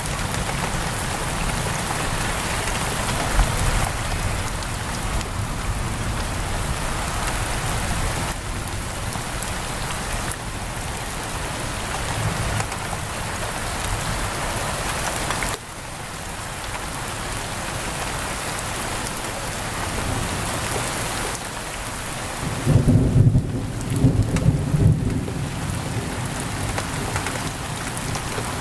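Steady heavy rain pouring on a window. A low roll of thunder rumbles for about three seconds near the end.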